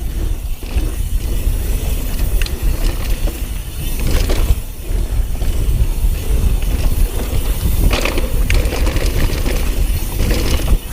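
Mountain bike descending a dirt trail at speed: wind buffeting the microphone, tyres rumbling over dirt and roots, and the bike rattling, with a few sharper knocks about two, four and eight seconds in.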